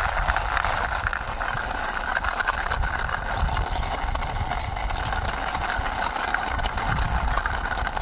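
Small toy car pushed by hand along a rough wall, its plastic wheels rolling and clattering with many small clicks over a steady rushing noise. A few short high chirps sound now and then.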